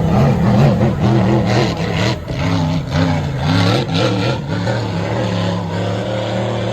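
Racing motorboat engines running, their pitch rising and falling as they rev, then holding steadier in the second half.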